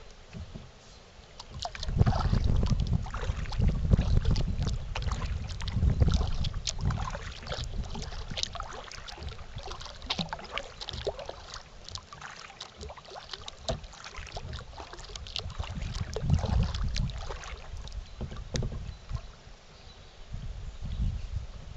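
Kayak paddle strokes dipping and splashing in lake water, with drips. Wind buffets the microphone in gusts, loudest a couple of seconds in and again about two-thirds of the way through.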